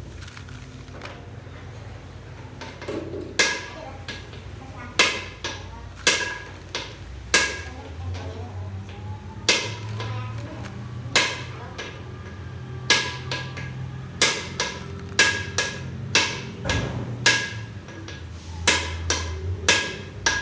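A hammer striking metal with hard, ringing blows, one every second or two at first and coming faster in the second half, over a steady low hum.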